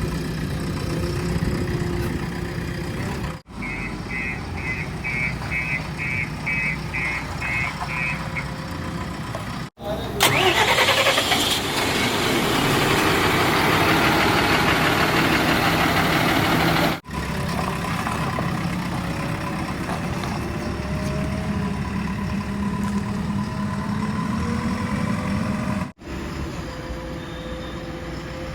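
Diesel engines of earth-moving machinery running, in several clips joined by abrupt cuts. In one clip a high beep repeats about twice a second for some five seconds. In another, a loud rushing noise lasts about seven seconds over the engine.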